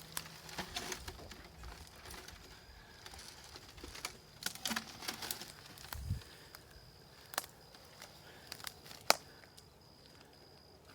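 Scattered rustles, creaks and knocks of cut wood and brush being shifted by hand, with a low thump about six seconds in and one sharp crack about nine seconds in.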